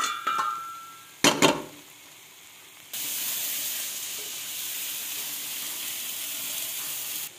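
Tomato and green-chilli masala sizzling steadily in hot oil in a frying pan; it starts about three seconds in and cuts off suddenly near the end. Before it, about a second and a half in, come two sharp knocks.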